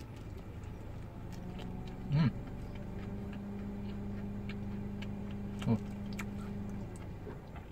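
A man chewing a big bite of burger close to the microphone: soft wet chewing clicks, with two short hummed "mm" sounds, about two seconds in and near six seconds. A steady low hum sounds under the chewing through the middle of the stretch.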